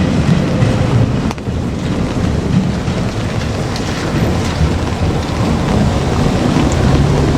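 JR Kyushu 817 series electric train passing close by: a heavy, steady low rumble mixed with wind buffeting the microphone, with one sharp knock just over a second in.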